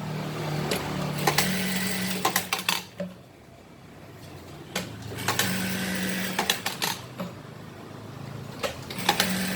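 Sunstar automatic sewing machine stitching in three short runs, each a few seconds long, with brief stops between them. Each run is a steady motor hum under a fast rattle of the needle, with sharp clicks as it starts and stops.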